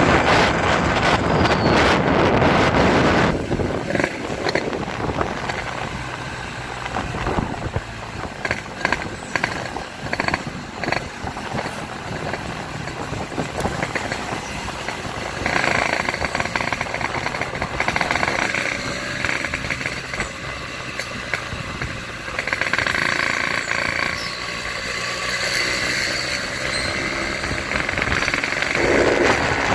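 Motorcycle running through a bobokan exhaust, a muffler with its baffles hollowed out. It is loudest for the first few seconds, then drops, with a few rises in level as it is revved.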